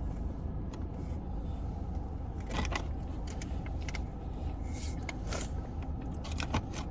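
Steady low hum of an idling car, heard inside the cabin, with a few light clicks and rustles.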